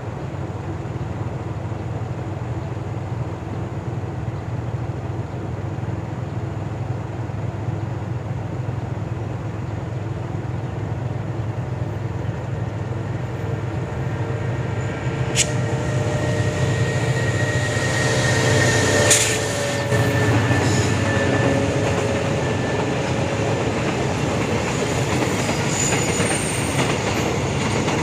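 Freight train rolling past: a steady low rumble of wheels on the rails. From about halfway, rail-joint clicks and a faint wheel squeal join in.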